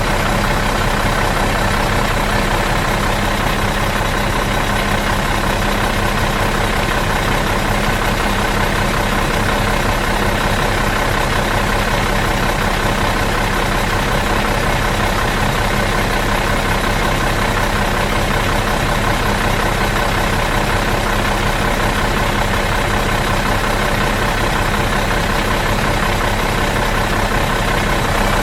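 Bus engine idling steadily out of gear, an even, unchanging running sound.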